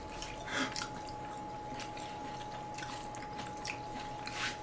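Quiet eating sounds: people chewing pasta, with a few faint short clicks of chopsticks and mouth sounds. A faint steady high-pitched tone runs underneath.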